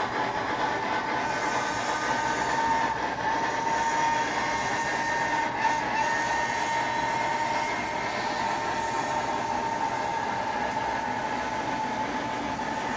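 HO-scale brass 2-6-6-2 model steam locomotive running with its TCS WOW sound decoder playing steam sounds: a steady hiss with a steady whine-like tone.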